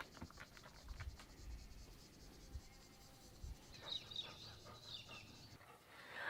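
Near silence, with faint chirping from small birds about four seconds in.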